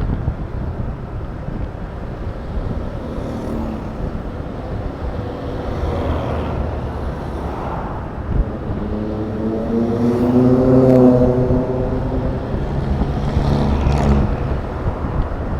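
Honda Click 125 scooter's single-cylinder engine running on the move, with a steady low drone and wind rushing over the microphone. About nine seconds in an engine note climbs and holds, then eases off around twelve seconds.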